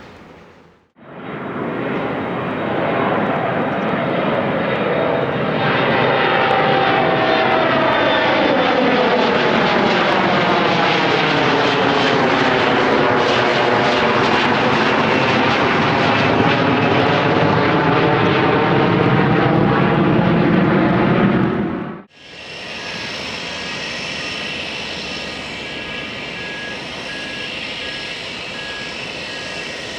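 Jet airliner flying low overhead: loud, steady engine noise with a slow phasing sweep that falls and rises again as it passes. After an abrupt cut about 22 seconds in, quieter jet engine noise follows, with steady high-pitched whining tones.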